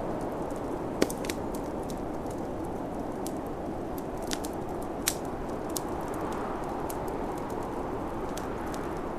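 Wood fire crackling, with scattered sharp pops, the loudest about a second in, over the steady rushing wind of a snowstorm.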